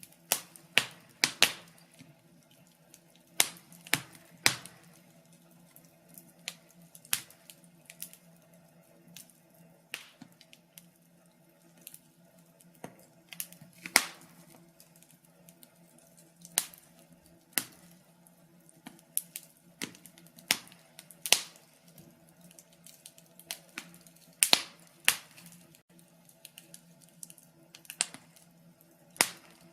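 Wood fire crackling in a fireplace: irregular sharp pops and snaps, some loud and close together, others seconds apart, over a faint steady low hum.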